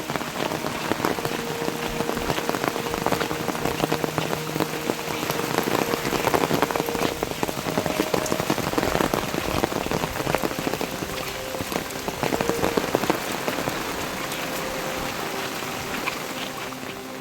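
Heavy monsoon rain falling, a dense patter of drops striking a surface. It swells louder a few seconds in and eases slightly near the end.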